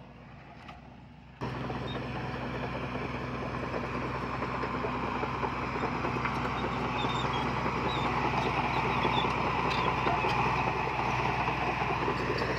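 Heavy diesel earthmoving machinery running under steady load, cutting in suddenly about a second and a half in and growing gradually louder.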